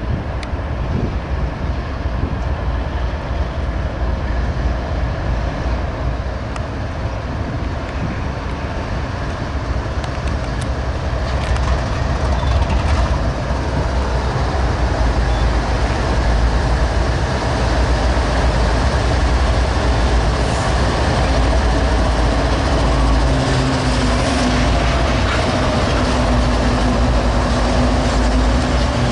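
A train running on the rails: a heavy, steady low rumble that grows louder about halfway through, with a faint steady whine joining in near the end.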